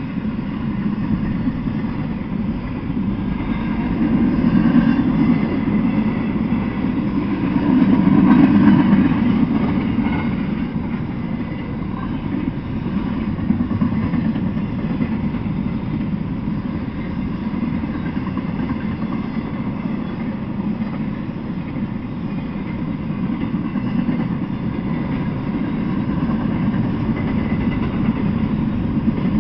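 Intermodal freight train cars rolling past on the rails: a steady rumble of steel wheels on track, swelling louder twice, at about four and about eight seconds in.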